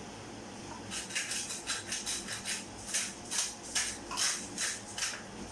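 Salt shaken into the pot: about a dozen short rattling shakes, roughly three a second, starting about a second in and stopping near the end.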